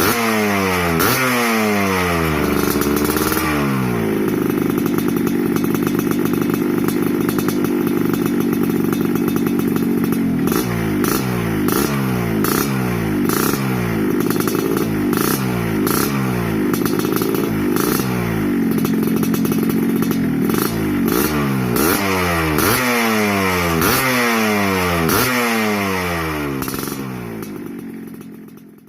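A Yamaha RX-King two-stroke motorcycle with an aftermarket 'lobster' exhaust, revved over and over in quick blips about once a second. Twice it is held at a steady higher rev for a few seconds. The sound fades out at the very end.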